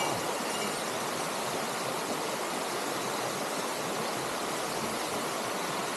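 Steady rush of a mountain stream's water running over rocks, an even hiss with no breaks.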